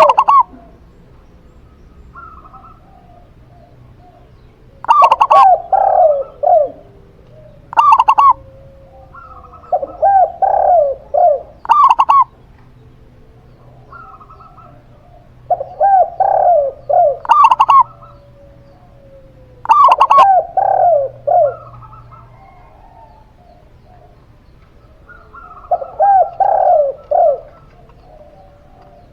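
Zebra dove and spotted dove cooing: phrases of quick rippling coo notes that repeat every few seconds, with short pauses between them. Some phrases are topped with sharp, high ringing notes.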